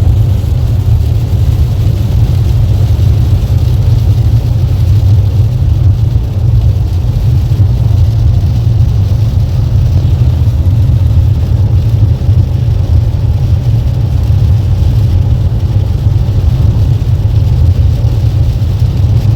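Steady, loud rumble from inside a car driving in pouring rain, with tyre, road and engine noise all the way through.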